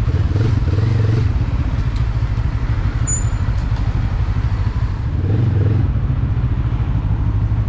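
Benelli TRK 702's parallel-twin motorcycle engine running at low revs, swelling briefly about half a second in and again around five seconds.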